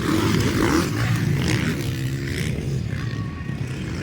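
Motocross dirt bike engines running and revving as the bikes race on the track, their pitch rising and falling.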